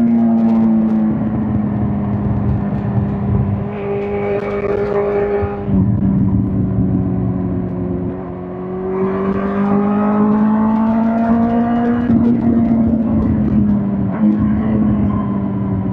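2005 Suzuki GSX-R1000 K5's inline-four engine running under way. Its pitch climbs slowly as it accelerates and drops in steps several times, as at gear changes or rolling off the throttle.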